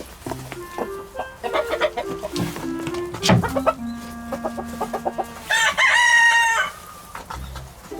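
A rooster crows once, a loud call lasting about a second, a little past halfway. Before it, chickens cluck over soft background music.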